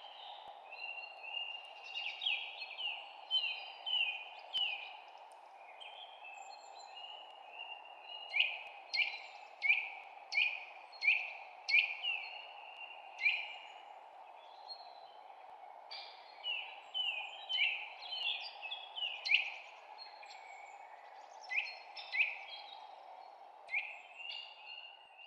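Birds chirping in runs of short, sharp notes that drop quickly in pitch, some spaced about a second apart and others in quick clusters. A steady hiss-like background noise runs beneath them.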